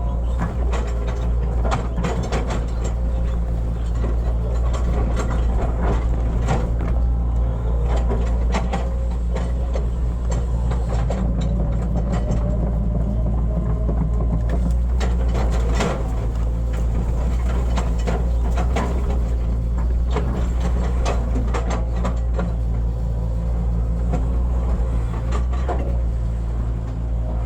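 Hitachi hydraulic excavator's diesel engine running steadily under working load, with frequent sharp knocks and clanks from the digging work.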